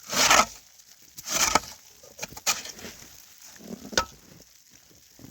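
Cooking-pan handling: a few short scraping sounds and a sharp knock about four seconds in, while chicken is being got ready to fry.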